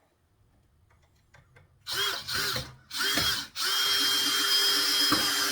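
Power drill driving a screw into a 2x2 board: a few small clicks, then two short bursts of the motor speeding up and slowing down, then a longer steady run.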